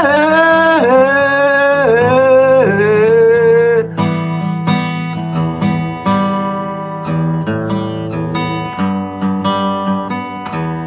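Acoustic guitar song: a singer holds the last sung note, bending it down and back up three times, and the voice stops about four seconds in. Acoustic guitar is picked alone after that.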